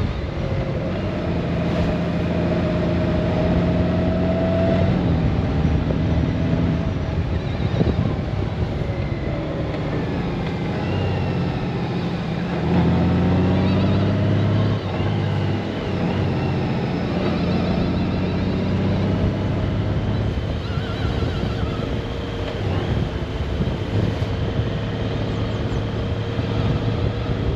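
Honda Gold Wing flat-six engine running at road speed under wind noise, its pitch shifting as the bike changes speed.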